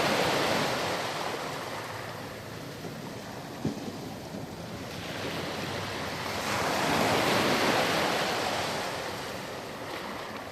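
Sea surf washing onto a sand beach, swelling and ebbing: one wave recedes early on, the next builds to a crest a little past the middle and draws back near the end. A single brief knock sounds a little over a third of the way in.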